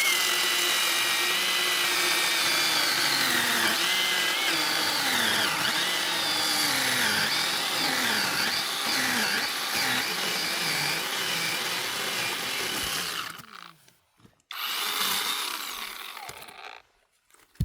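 Chainsaw cutting through a log for about thirteen seconds, its pitch dipping and rising as the chain loads up in the wood; it stops, then runs again briefly for a couple of seconds.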